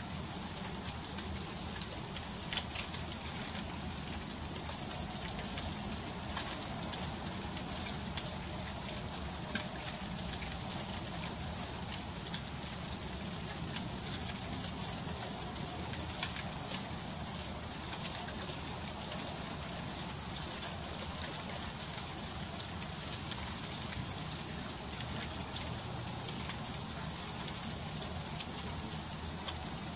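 Freezing rain falling steadily in an ice storm: a continuous hiss scattered with many small, sharp ticks of sleet and ice pellets striking surfaces.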